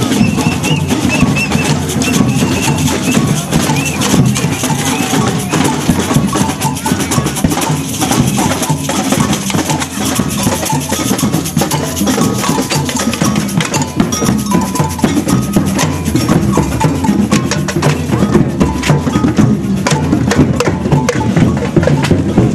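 A percussion band playing continuously: dense drum and wood-block-like strikes with cowbell-like clanks and some held tones.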